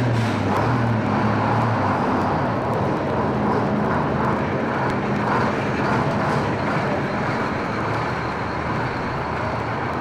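An engine running under a steady rushing noise, its low hum dropping slightly in pitch over the first two seconds.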